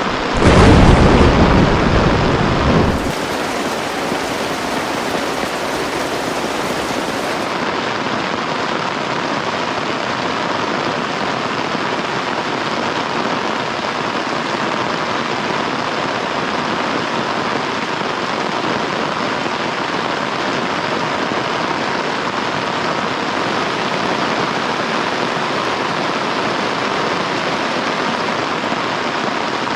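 Heavy rain falling steadily. A louder, deeper rumble swells at the start and fades within about three seconds.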